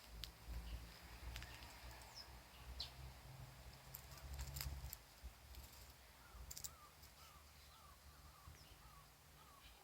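Faint outdoor ambience with a low rumble and a few light clicks. In the second half a bird gives a run of short, repeated calls, about two to three a second.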